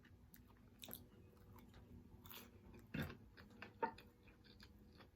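Quiet chewing and biting of food close to the microphone, with a few faint, short wet mouth clicks.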